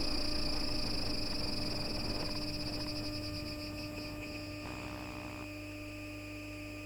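FGV Class 4200 Bombardier Flexity Outlook tram's MITRAC IGBT VVVF electrical equipment whining steadily with no change in pitch, high-pitched over a low hum, slowly getting quieter. A brief buzz comes about five seconds in.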